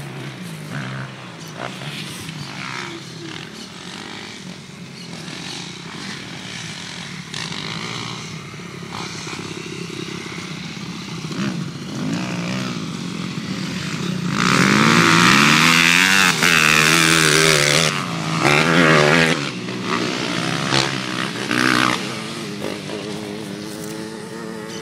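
Motocross bikes running on a dirt track, their engines revving up and down between gear changes. One bike passes loud and close a little past halfway, then the engines fall back to a more distant drone.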